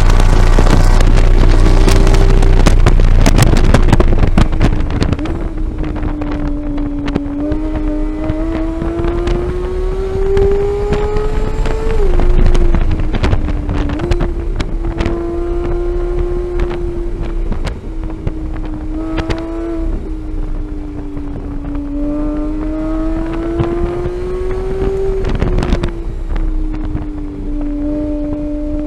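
Onboard sound of a 2015 Porsche 911 GT3's flat-six at speed on a race track. The engine note climbs steadily under acceleration, then drops suddenly at gear changes, about 12 seconds in and again near 25 seconds. Heavy wind noise on the microphone covers the first four seconds.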